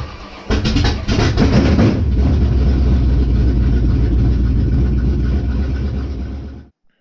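A car engine running loudly, with several sharp surges in the first two seconds, then running steadily until it cuts off suddenly near the end.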